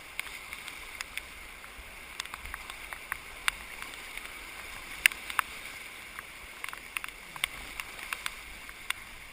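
Canoe paddles working the water, with scattered sharp splashes and knocks, over a steady rush of moving creek water.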